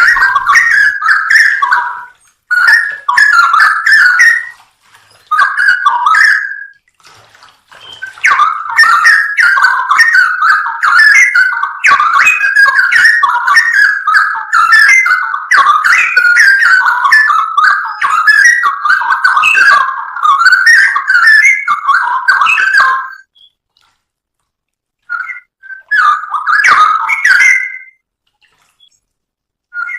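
Straw-headed bulbul (cucak rowo) singing loud, rich whistled and warbling phrases. A few short phrases open the stretch, then a long unbroken run of song goes on for about fifteen seconds, then there is a pause and two brief bursts near the end.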